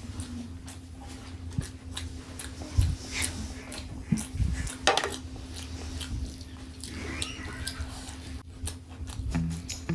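Close-miked eating sounds: mouth noises and chewing, with scattered clicks and a few sharper clinks of a spoon against a plate, over a steady low hum.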